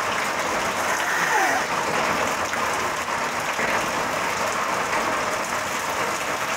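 Heavy rain pouring down: a steady, dense hiss of the downpour.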